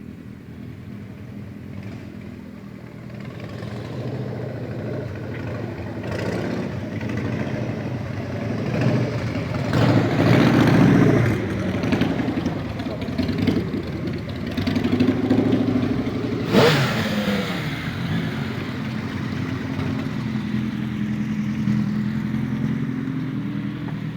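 A procession of motorcycles riding past, their engines running and revving. It builds over the first few seconds, with the loudest passes about ten and sixteen seconds in.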